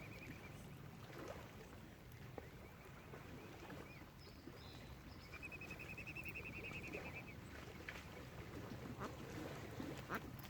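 Faint bird calls over a low steady outdoor background: a few short high notes, and near the middle a rapid run of short notes lasting about two seconds.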